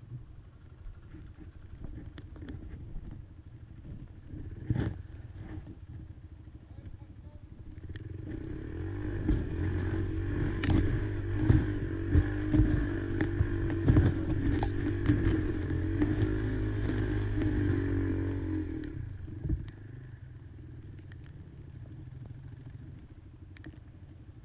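Quad engine running at low throttle, then revved hard and held for about ten seconds under load, then eased back to a low steady run near the end.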